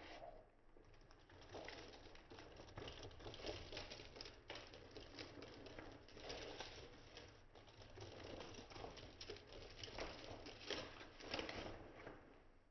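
Faint, irregular pattering and rustling of kittens scampering and playing.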